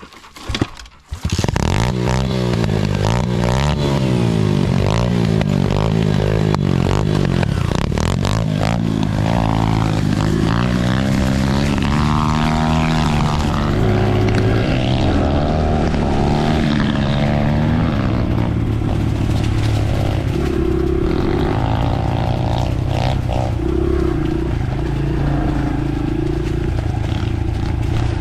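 Dirt bike engine riding along the trail, its pitch rising and falling with throttle and gear changes. It cuts in abruptly after a knock about a second in.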